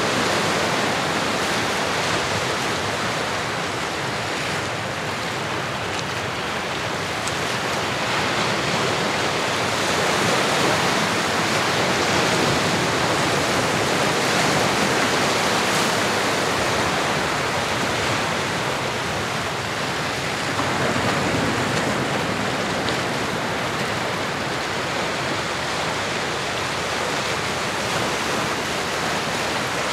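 Recorded ocean surf: a steady rush of waves that slowly swells and eases every several seconds.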